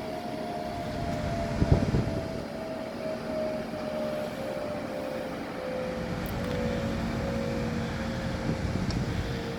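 Machinery engine running steadily, its hum carrying a tone that slowly sinks in pitch, with a couple of brief knocks about two seconds in; no hammer strikes.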